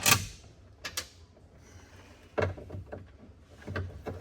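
A sharp loud clack right at the start, a lighter click about a second later, then a couple of duller knocks: small metal parts and hand tools being handled and dropped while interior trim is taken apart.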